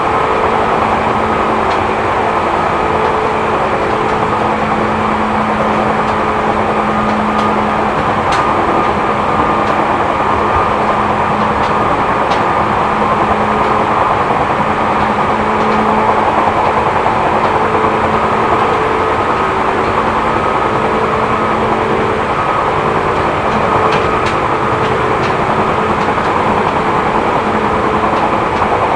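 Seibu New 2000 series electric train running at steady speed, heard inside the passenger car: a constant rumble of wheels on rail with a steady motor and gear hum and a few faint clicks. The recordist notes flat spots on the wheels adding flat-wheel noise in the car.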